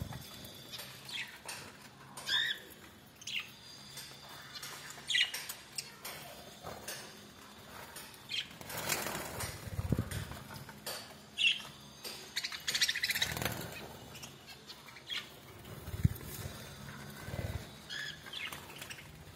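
Pet birds chirping in short, high calls now and then, with two stretches of wing flapping, about nine and thirteen seconds in.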